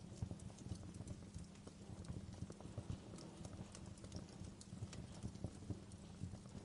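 Fireplace crackling: irregular small pops and snaps over a low steady rumble.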